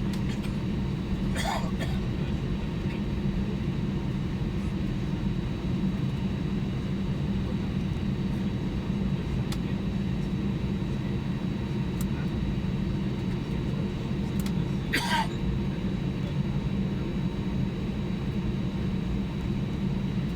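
Steady low hum of an Airbus A320-200 cabin, several even tones holding constant throughout. Two short sharp sounds cut through it, about a second and a half in and again about fifteen seconds in.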